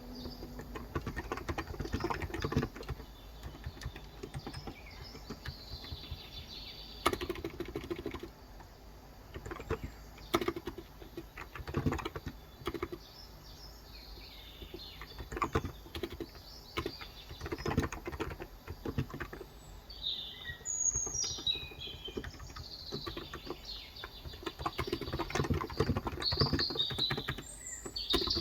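Typing on a Cox Endeavour electrostatic-capacitive (non-contact) tenkeyless keyboard with light 35 g keys: dense runs of keystrokes in bursts with short pauses between. Small birds chirp in the background, most clearly in the last third.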